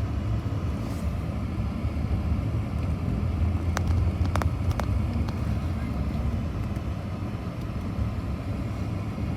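Steady low rumble of a running vehicle, with a few sharp clicks about four seconds in.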